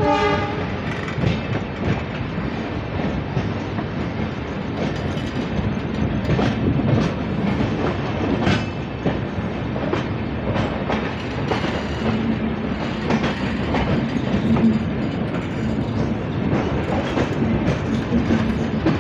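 Charminar Express passenger coaches running along the track, a steady rumble with irregular wheel clacks over rail joints and points. A short pitched tone sounds right at the start.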